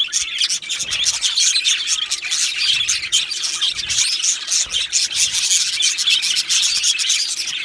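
Budgerigars chirping and warbling: a dense, continuous chatter of quick high chirps and clicks.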